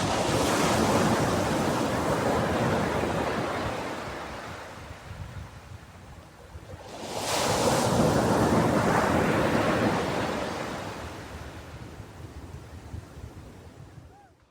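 Ocean waves breaking on a shore, two in turn. Each surges in with a rushing hiss and washes back out slowly over several seconds; the second comes about seven seconds in.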